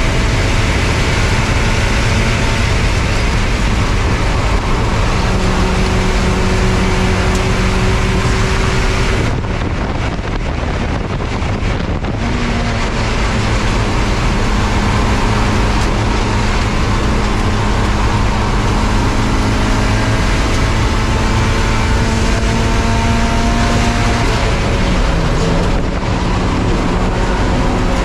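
Spec Miata race car's four-cylinder engine running hard under a steady rush of noise, its pitch rising and falling. About nine seconds in it goes quieter for roughly three seconds, then pulls again.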